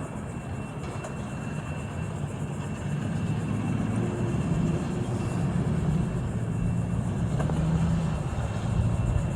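Engine running at low revs, a steady low rumble that grows louder about three seconds in.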